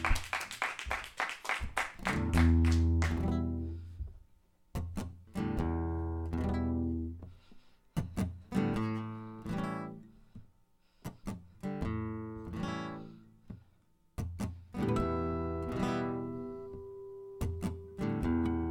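Solo acoustic guitar playing an instrumental introduction: a few quick strums, then picked chords and single notes left to ring, with short pauses between phrases.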